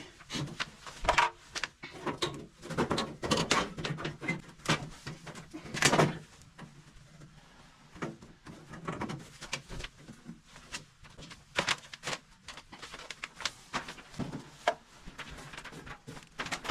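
Irregular clicks, knocks and light clatter of hands and objects being handled, with the loudest knocks about one second in and again around six seconds.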